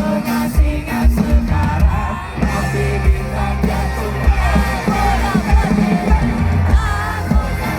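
Rock music with a singer over a steady drum beat, loud and dense.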